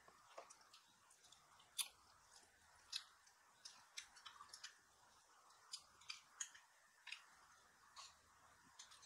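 Quiet eating noises: soft, irregularly spaced clicks and smacks of people chewing food, over faint room hiss.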